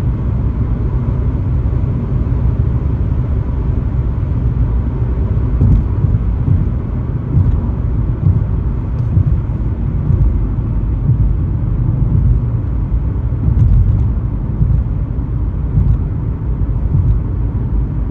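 Steady road and engine rumble of a car driving at speed on a highway.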